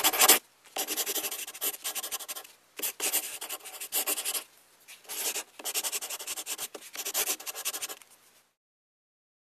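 A scratchy rubbing sound effect made of a run of uneven strokes with short breaks, like rapid scribbling, stopping about a second before the end.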